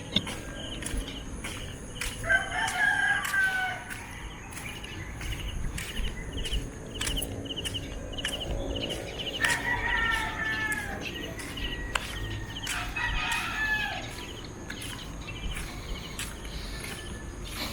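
Roosters crowing three times, each crow a drawn-out call of about a second and a half that falls slightly in pitch at the end, over a rapid, high, repeated chirping.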